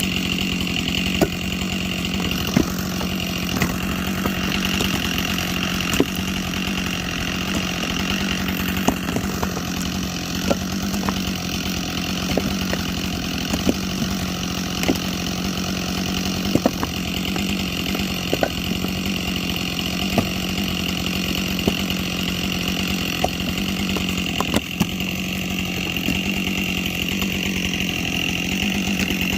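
Chainsaw running at a steady high speed while bucking logs into firewood, with scattered sharp ticks through the cut.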